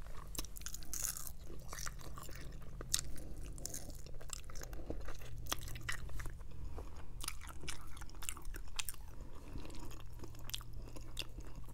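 A person chewing and biting rotisserie chicken close to a lapel microphone: irregular crunchy clicks and wet mouth sounds, over a faint steady low hum.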